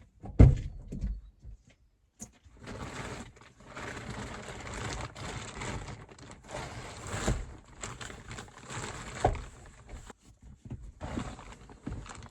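Handling noise from a portable tray desk being taken off and moved: a heavy thump about half a second in, then steady rustling with scattered light knocks.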